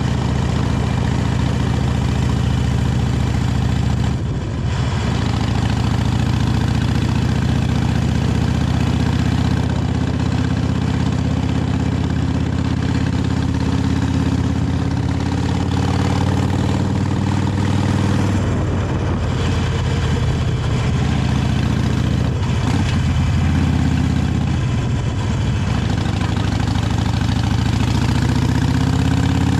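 Harley-Davidson 883 Iron's air-cooled V-twin engine running through its stock exhaust while riding, steady with a brief drop in pitch several times and a rise in pitch near the end.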